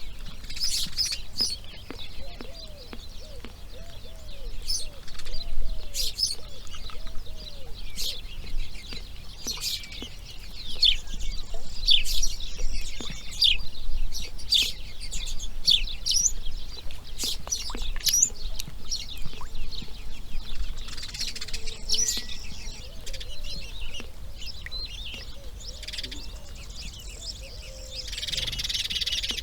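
Birds calling: a busy stream of short, sharp high chirps and ticks, with a lower series of short hooting notes repeating about twice a second, heard twice.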